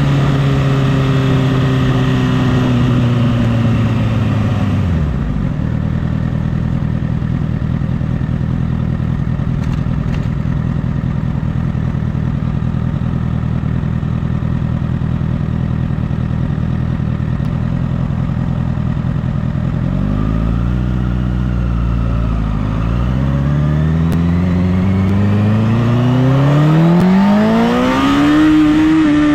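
Honda CBR1000RR inline-four sportbike engine winding down as the bike slows, then idling steadily for about fifteen seconds. Two short throttle blips follow, then a long rising rev as it pulls away, peaking near the end.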